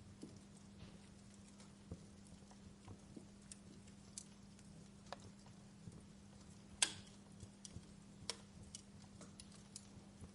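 Wood fire crackling: faint, irregular sharp pops and snaps, the loudest one about two-thirds of the way through, over a steady low hum.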